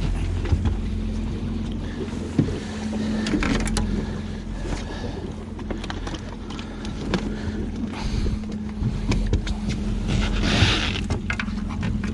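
Steady low hum of a boat motor running, with scattered knocks from handling on the boat and a short burst of hiss about ten seconds in.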